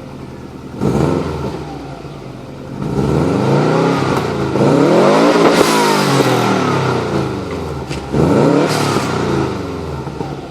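A car engine revved through a loud aftermarket exhaust, with a quick blip about a second in, a longer rev that climbs and falls back, and another blip near the end, settling to idle between them.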